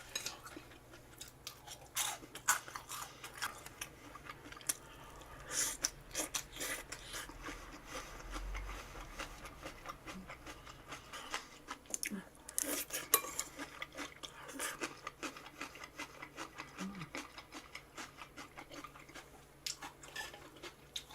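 Close-up eating sounds: chewing and crunching food, with utensils clicking against dishes in many short, scattered clicks.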